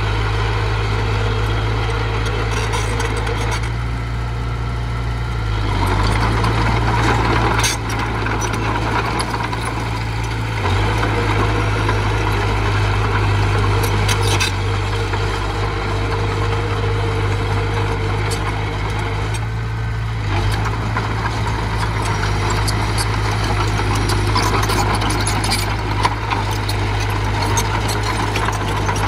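Small bulldozer's diesel engine running under work, its level rising and easing a few times, with gritty scraping and clanking from the machine working soil.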